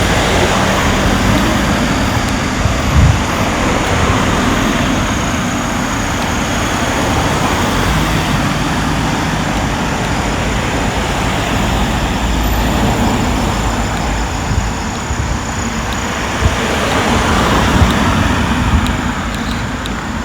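Steady road traffic noise, with vehicles passing and a low engine rumble underneath.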